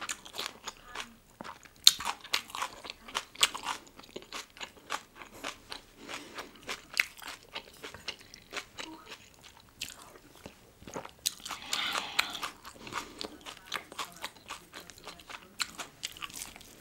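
Close-miked chewing of young radish kimchi bibimbap: many irregular, crisp crunches and bites, with a denser run of chewing about twelve seconds in.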